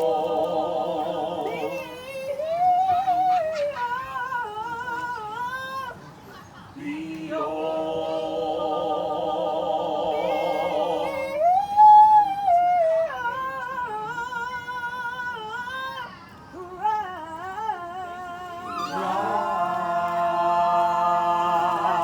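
A group of voices singing a cappella with vibrato. Held harmony chords alternate with a single voice's gliding melodic phrases.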